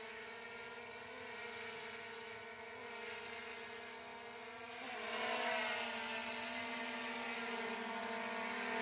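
SJRC F22S 4K Pro drone hovering, its propellers giving a steady whirring hum. About five seconds in the hum wobbles in pitch and gets louder.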